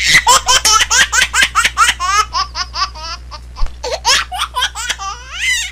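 A baby's giggling laughter in rapid high-pitched bursts, about five a second, loudest at first and fading, with a rising squeal near the end, over a steady low hum.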